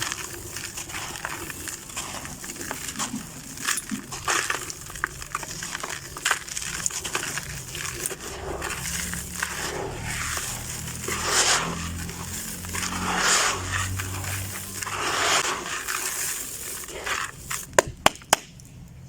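Sand-cement shapes coated with small crunchy grains being crumbled by hand: gritty crunching and crackling in repeated swells as the grains break apart. Three sharp clicks near the end.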